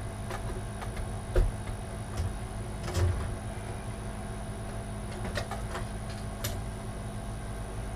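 Light clicks and knocks of computer parts being handled as an expansion card is worked into its slot on a motherboard inside a PC case, a few seconds apart, over a faint steady hum.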